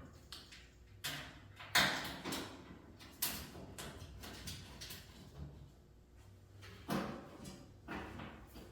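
A series of irregular knocks, clunks and scrapes, with the loudest knocks about two seconds in and again near the end.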